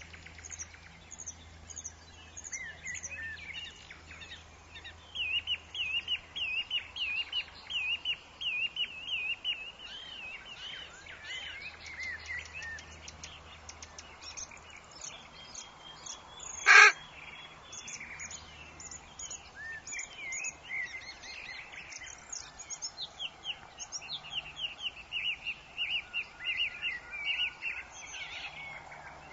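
Forest birds singing, with long runs of quick repeated chirps over a faint steady background. About halfway through comes a single sharp, very loud crack.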